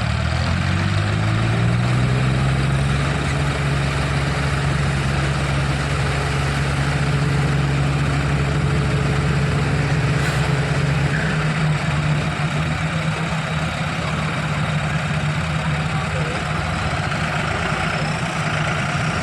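Diesel tractor engine revs up over the first two seconds, then holds steady at high revs, pulling under heavy load in a tochan (tractor tug-of-war).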